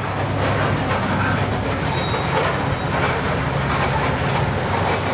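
Covered hopper cars rolling past behind a switcher locomotive, steel wheels rumbling and clicking on the rails over a steady low drone.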